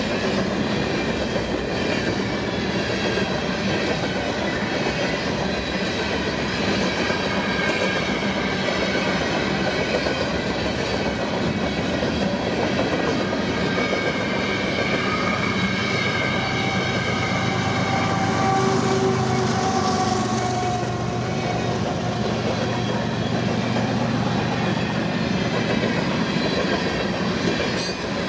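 CN train's cars rolling past on the rails: a steady, dense rolling noise, with high wheel-squeal tones wavering in pitch in the middle part.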